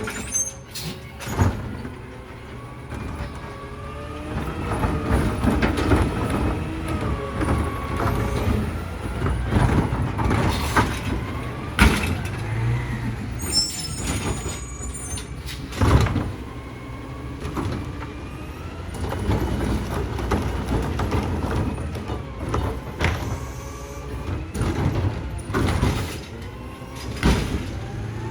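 Automated side-loader garbage truck working: the diesel engine rises and falls in pitch as it powers the hydraulics, with a steady rumble and several sharp clanks and knocks spread through.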